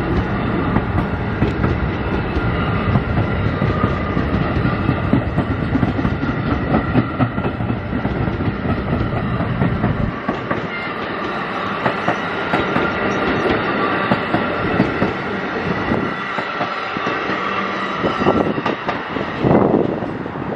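New Jersey Transit Multilevel passenger train passing, with a steady rumble and wheels clicking over rail joints. The deep rumble fades about halfway through.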